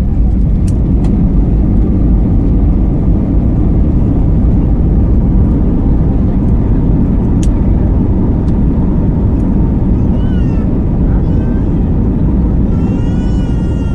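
Loud, steady rumble inside the cabin of an Airbus A320 rolling down the runway just after touchdown, the wheels and engines decelerating the aircraft. The rumble eases slightly near the end, and a few sharp ticks are heard.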